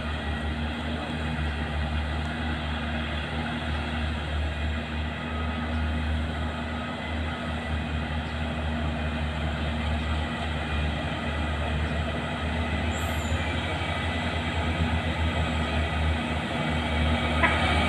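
Heavy truck's diesel engine labouring slowly uphill in low gear, a steady low drone that grows gradually louder as it approaches.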